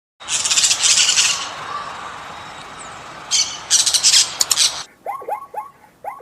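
Bird calls: harsh, high squawking in two loud spells, then from about five seconds in a run of short calls, each falling in pitch, about two a second.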